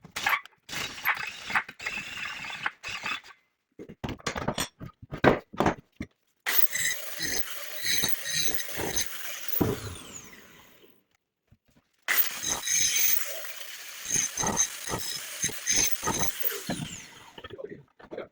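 Metalworking sounds: a run of separate knocks and clanks, then two stretches of several seconds each of a power tool running with more knocks over it.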